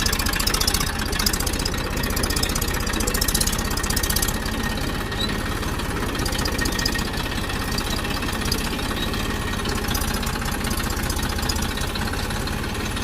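Tractor's diesel engine running steadily as it drives along.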